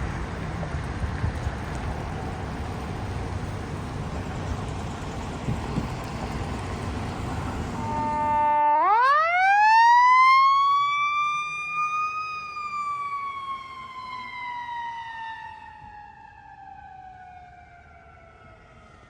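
A steady rushing noise of wind and traffic stops abruptly. An emergency vehicle's siren then winds up in one long rising wail and slowly falls in pitch, fading toward the end.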